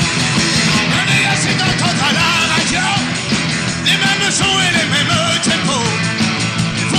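Rock band playing, a lead part bending up and down in pitch over a steady bass and drum backing.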